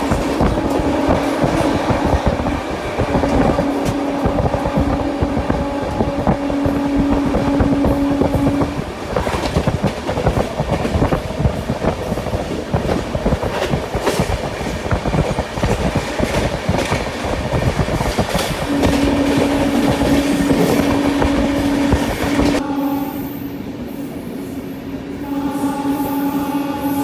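Express train running at speed, with rumble and rattle of the wheels on the track, while the locomotive's horn sounds two long, steady blasts: one at the start lasting about nine seconds, and another from about nineteen seconds in to the end. A little before the end, the rushing track noise drops away while the horn keeps sounding.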